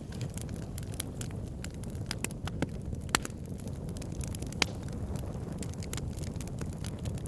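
Wood campfire burning: firewood crackling with frequent sharp snaps over a steady low rumble, two louder pops about three and four and a half seconds in.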